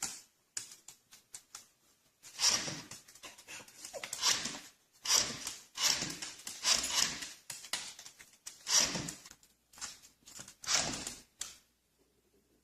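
A dog breathing heavily: a series of about nine loud, noisy breaths roughly a second apart, after a few faint clicks at the start.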